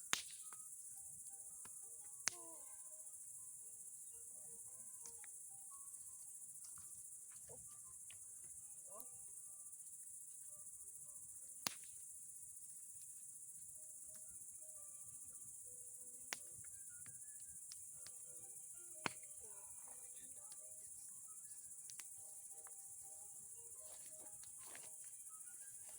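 Steady high chirring of crickets, with a few sharp pops and cracks from the burning-down bonfire, about 2, 12, 16 and 19 seconds in.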